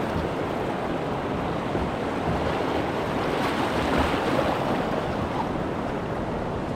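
Steady rushing of river water running over a shoal.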